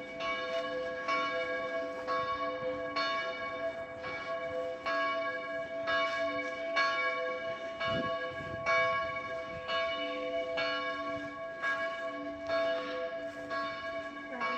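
Church bells being rung by a ringer in the tower, strikes coming about twice a second with the tones ringing on between them.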